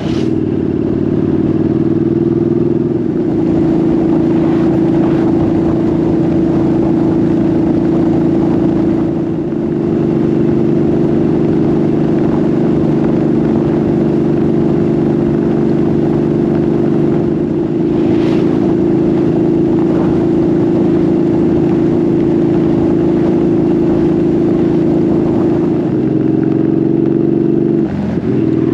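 Motorcycle engine running at steady revs, as when cruising, with a brief drop in level about nine seconds in and a change in pitch a couple of seconds before the end.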